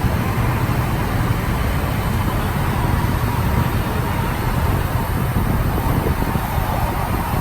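Steady low rumble of vehicle and traffic noise, with no distinct events.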